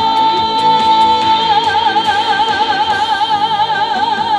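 A female trot singer holds one long high note at the end of a sung line, over a live band's backing with a steady beat. Her vibrato widens about a second and a half in.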